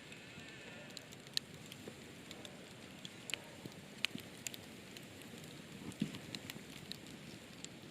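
Wood fire crackling with sparse, irregular pops and snaps over a low, steady hiss.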